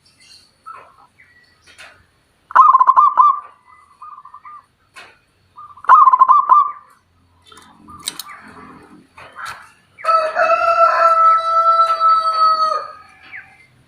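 A bird calling: two short, rapid stuttering calls, then one long pitched call held for almost three seconds that drops off at its end.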